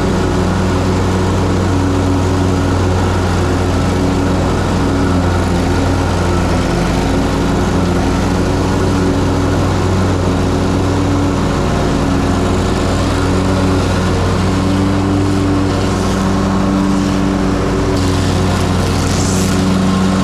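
Ferris Z3X zero-turn mower's 37 hp engine running steadily while mowing, with a small shift in its note about a third of the way in and again near the end.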